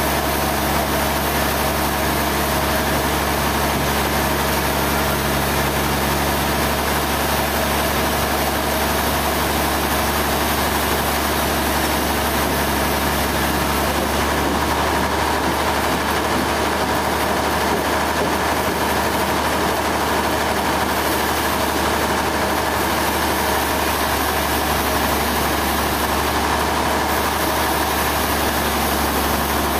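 Sawmill machinery running steadily: a loud, even machine drone with hiss, the lowest hum thinning slightly about halfway through.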